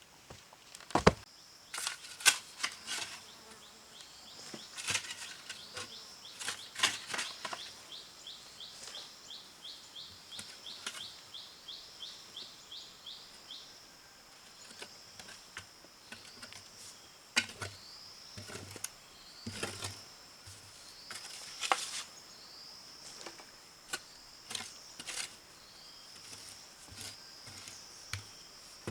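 Scattered sharp knocks and clicks, as of hand work with hard material, over a steady high insect drone. For several seconds in the middle there is a run of quick repeated chirps, about four a second.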